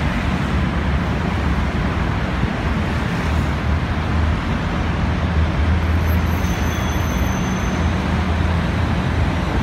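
Diesel train approaching along the track, its engine a low steady drone that grows stronger partway through, over a constant rumble of road traffic.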